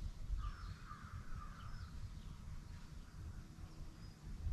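Faint bird calls: a harsh, wavering call beginning about half a second in and lasting just over a second, then a few short high chirps, over a steady low rumble.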